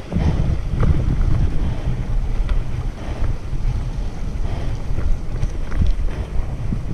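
Wind buffeting the microphone of a camera riding along on a bicycle: a steady, fluttering low rumble with a few faint ticks.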